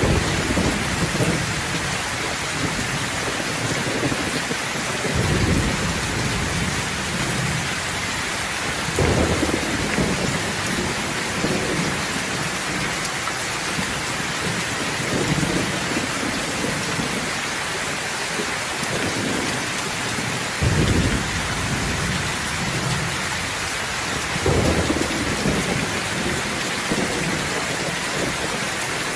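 Steady rain hissing with repeated low rolls of thunder, the strongest about five, nine, twenty-one and twenty-five seconds in.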